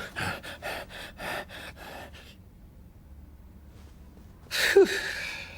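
A cartoon character's quick, breathy puffs, about four or five a second, for the first two seconds. After a pause comes a loud gasp near the end, its pitch sliding steeply down.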